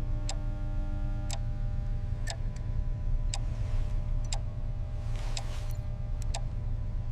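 Clock-like ticking, about one tick a second, over a steady low rumble and faint held tones.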